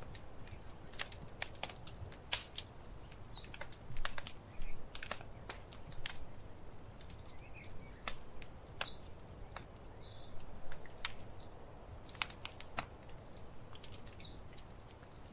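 Wood fire crackling in a fireplace: irregular sharp pops and snaps, several a second at times, over a low steady rumble.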